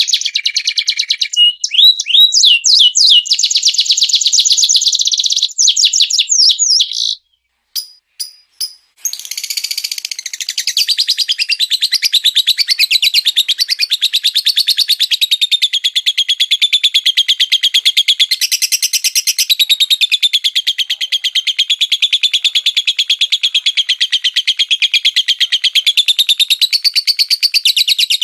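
A small songbird singing rapid-fire trills, dense chattering notes with a few quick sweeps. The song breaks off for about two seconds partway through with a couple of clicks, then a long unbroken fast trill runs on with a slightly wavering pitch.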